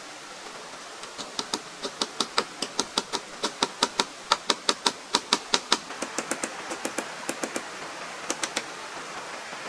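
A rapid, even run of sharp taps, about four a second, loudest in the middle and softer later, ending with three last taps after a short gap.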